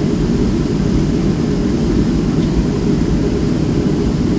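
Boeing 737-300's CFM56 jet engines running: a steady, loud low rumble.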